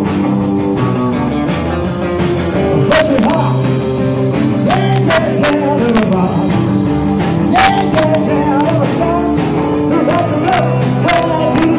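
Live rock and roll band playing: a wavering sung or lead melody over steady bass notes and regular drum hits.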